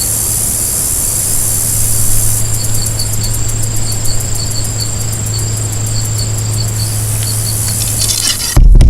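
Insect chorus: a steady high-pitched drone with a regular chirp about three times a second, joined by a fast pulsing trill from about two and a half to seven seconds in. A low steady hum runs underneath, and a loud low rumble starts just before the end.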